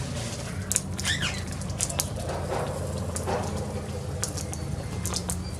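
Scattered sharp clicks and taps with a couple of faint short chirps from young sulphur-crested cockatoos, over a steady low hum.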